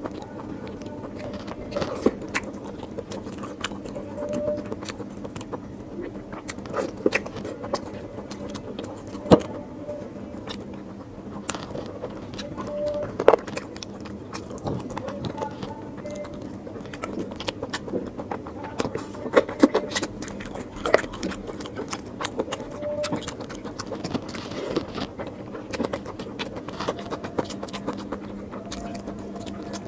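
Close-miked eating sounds of mutton curry and rice eaten by hand: chewing with irregular wet mouth clicks and smacks, a few of them louder. Fingers pull meat off a mutton leg bone.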